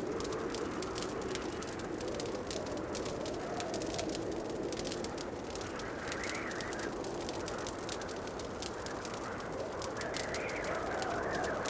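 Wood fire crackling in a fireplace with a steady stream of small pops and snaps, over a soft rushing that swells and fades every few seconds.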